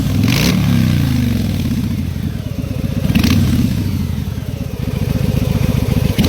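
Harley-Davidson Breakout's Milwaukee-Eight V-twin running through a BTC "Gangsta" exhaust with Kess Tech electronic mufflers, revved twice, once just after the start and again about three seconds in, with the revs falling back toward idle after each.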